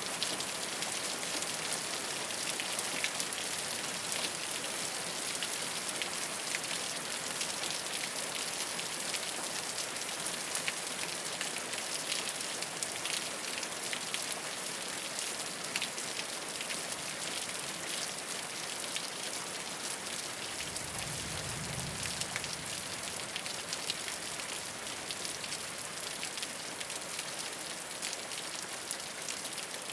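Steady rain falling on a rooftop, a dense patter of drops, with a brief low rumble a little over two-thirds of the way through.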